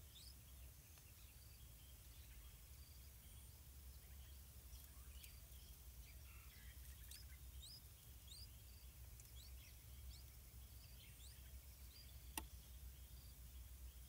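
Faint, short high-pitched bird chirps scattered throughout over a low steady rumble, with one sharp click about twelve seconds in.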